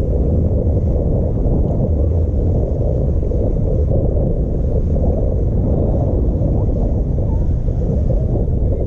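Motorboat running in a steady low rumble as it comes in, mixed with wind buffeting the microphone.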